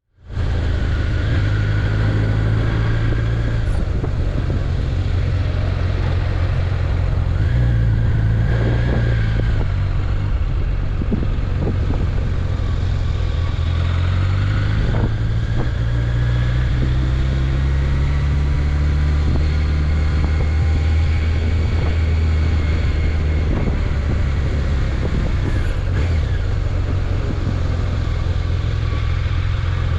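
Honda CBR1100XX Super Blackbird's inline-four engine running under way, its low note stepping up and down several times as the speed and gears change.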